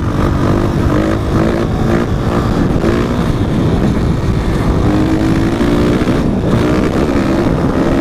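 450 four-stroke dirt bike engine running, its pitch rising and falling with the throttle.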